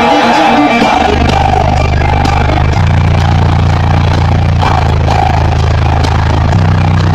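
Music played loud through a Ground Zero car audio system, guitar at first, then from about a second in, deep sustained bass notes that shift every couple of seconds and dominate the sound.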